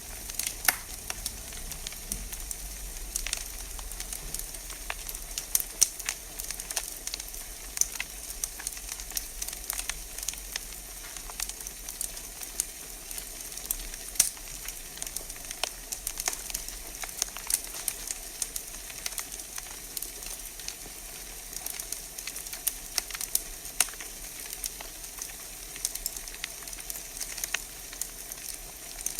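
Wood fire burning in a fireplace, with frequent sharp irregular crackles and pops over a steady soft hiss.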